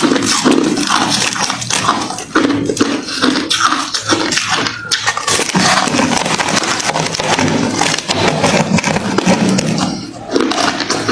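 Hard refrozen crushed ice being chewed close to the microphone: dense, continuous cracking crunches with a short lull near the end.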